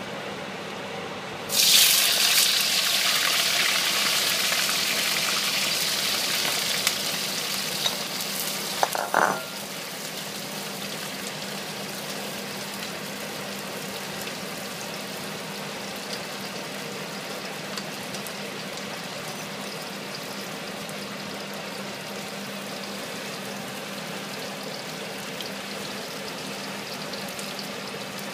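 Whole prawns hit hot oil in a stainless steel wok and set off a loud sizzle that slowly eases, with a few sharp clacks of metal on the wok near its end. After about nine seconds the sizzle drops suddenly to a quieter, steady frying hiss.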